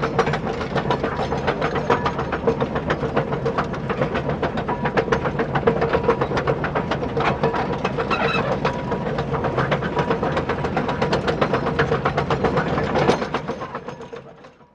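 Small electric gear motors of RC construction models running steadily, a rapid clicking clatter over a steady whine, fading out over the last second or so.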